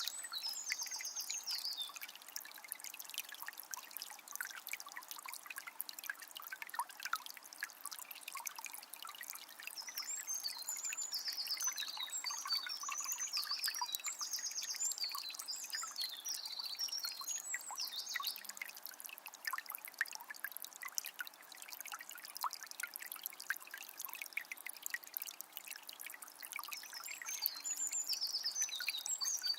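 Small spring trickling and splashing steadily. A songbird sings in short, busy phrases near the start, for several seconds about a third of the way in, and again near the end.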